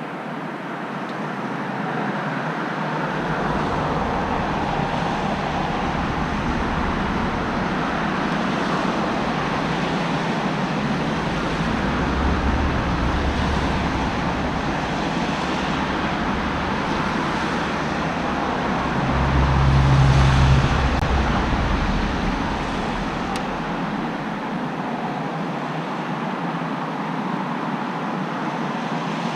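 Road traffic noise: a steady hiss of tyres with a low engine rumble that builds, peaks about two-thirds through as a vehicle passes close, then fades.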